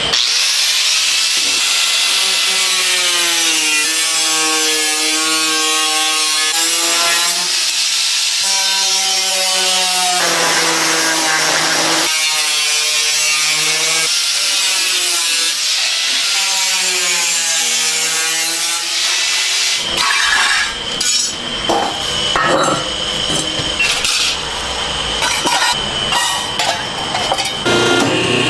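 A tool cutting or grinding material: a pitched whine over hiss that rises and falls in sweeps of a few seconds, giving way about 20 seconds in to irregular scraping and clattering.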